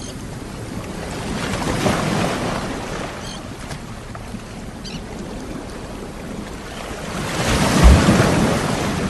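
Sea waves washing in and breaking on the shore. Two waves swell up about six seconds apart; the second is the louder and breaks with a low thud.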